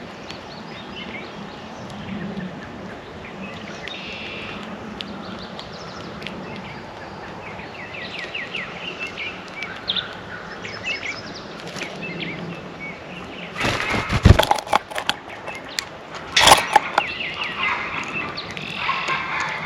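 Backyard songbirds chirping and calling around a bird feeder, with many short chirps and trills. Partway through come two loud bursts of rapid clattering close to the microphone, a second or so apart.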